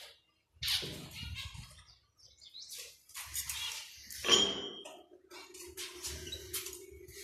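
Canaries chirping in short scratchy bursts, with one brief clear high note about four seconds in; a steady low hum starts at that point and carries on.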